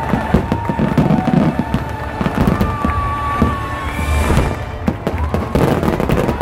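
Fireworks show barrage: many shells bursting and crackling in quick succession, with music playing along.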